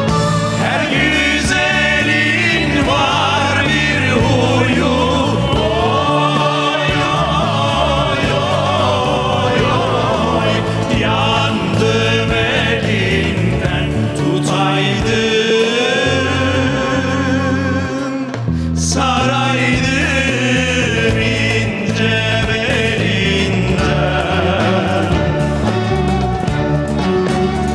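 Music: several voices singing a Turkic folk song together over instrumental accompaniment, with a brief dip about two-thirds of the way through.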